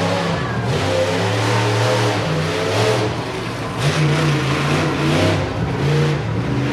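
Monster truck V8 engines at high revs during a drag race over cars, the pitch jumping up and down as the throttles open and close.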